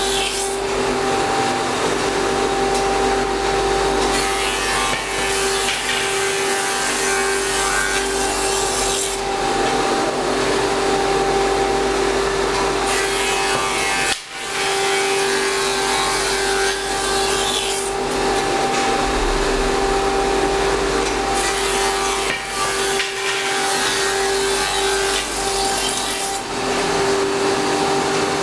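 Double-sided edge milling machine running, its cutters chamfering both long edges of Lattoflex bed slats fed through lengthwise. A steady motor hum sits under a louder cutting noise that swells and eases in stretches of several seconds as slats pass, with a brief drop about halfway.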